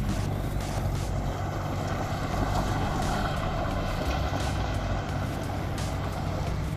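Car engine running hard under steady load, with tyre and loose-surface noise and scattered small clicks.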